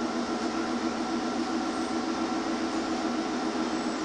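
Steady drone inside a Class 150 Sprinter diesel multiple unit: the underfloor diesel engine and running gear hum evenly, with a few constant tones over a rushing noise.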